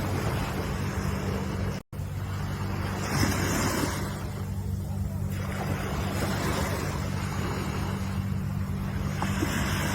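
Ocean surf: waves washing in and drawing back, swelling and fading every few seconds over a steady low rumble. The sound cuts out completely for a split second about two seconds in.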